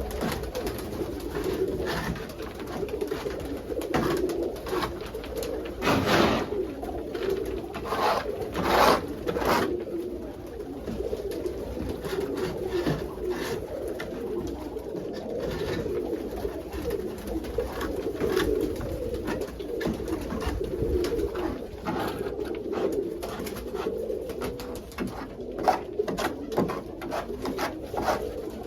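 Pigeons cooing steadily inside a loft, with a few short scratchy noises between about six and ten seconds in.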